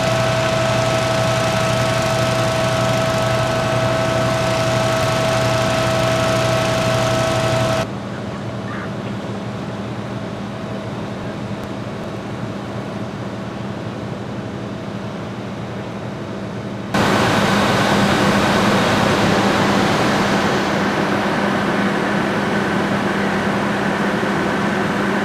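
Fire apparatus engines running steadily with a constant hum and fixed tones. The sound changes abruptly twice, about 8 seconds and 17 seconds in, dropping quieter and then jumping louder with a different pitch.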